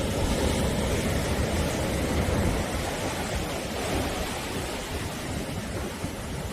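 Sea waves washing onto the shore in a steady, even rush, a little louder in the first few seconds and easing toward the end.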